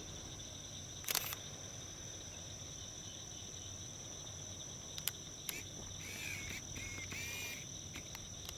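Steady, high-pitched chorus of marsh insects, with a few sharp knocks of camera handling, the loudest about a second in. Faint chirping calls come in around the six-to-seven-second mark.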